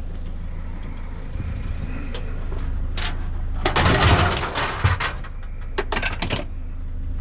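A van engine running with a steady low hum, with a click about three seconds in and bouts of clattering and rustling, as if things are being handled, about four and six seconds in.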